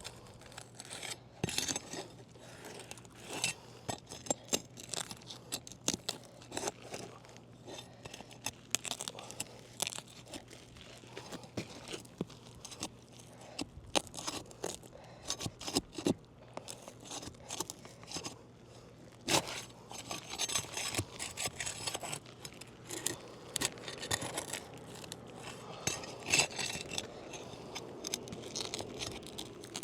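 Roof shingles being pried loose with a bar: irregular scraping, crunching and tearing as the bar works under the shingle and breaks its seal, with sharp clicks throughout. The crunching and tearing is the shingle cracking as it is lifted, the damage the repair test is meant to show.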